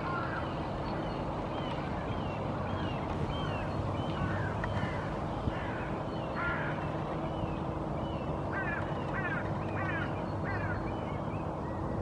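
Wild birds calling in woodland: a run of short chirping notes, packed closest about two-thirds of the way in, over a steady low rumble.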